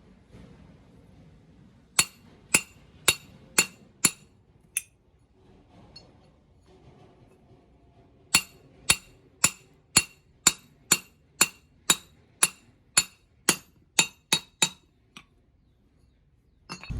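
Hammer blows on a steel part, each ringing sharply. There are six evenly spaced strikes, then after a pause of a few seconds about fifteen more at roughly two a second, coming a little quicker near the end.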